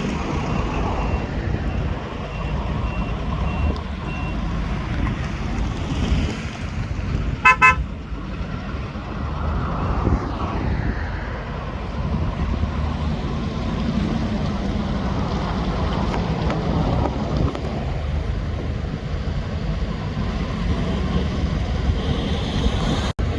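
Steady rumble of vehicles and engines on a highway, with a single short, loud vehicle horn toot about seven and a half seconds in. A faint run of high beeps sounds near the start.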